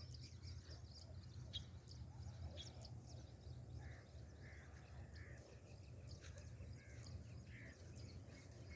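Faint outdoor birdsong: scattered short high chirps, then a series of short, lower calls from about four seconds in, over a steady low hum.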